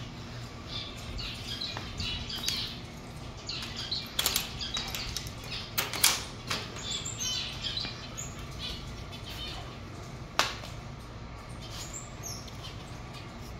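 Small aviary birds fluttering their wings and giving short chirps, with a sharp knock about ten seconds in.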